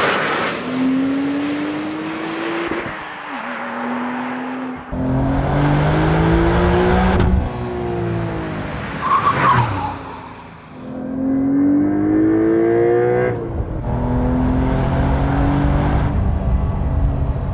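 Porsche 992.2 Carrera T's 3.0-litre twin-turbo flat-six, TechArt TsportR-tuned to 505 PS, accelerating hard: the engine note rises in pitch in four pulls, each ending suddenly as a gear is changed. A short loud burst comes about nine seconds in.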